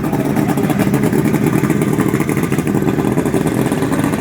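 A motorcycle engine running close by, with a steady, rapid exhaust beat.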